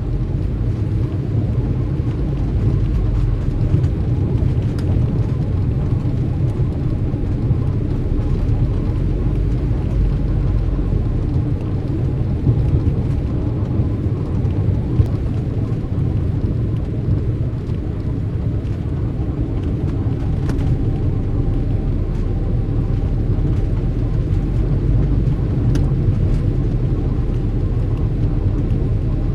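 Steady low rumble of vehicle traffic with a few faint ticks.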